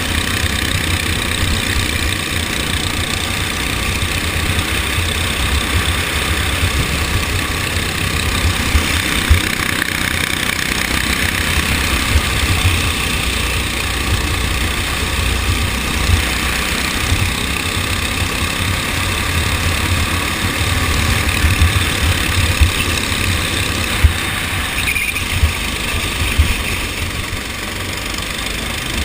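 Go-kart engine running steadily, with a heavy low rumble.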